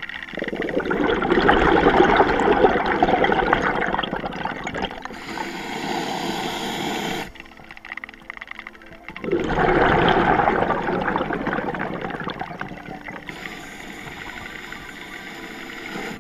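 Underwater rush of scuba exhaust bubbles, two long gurgling bursts, each loudest at the start and fading off, the second beginning about two seconds after the first dies away.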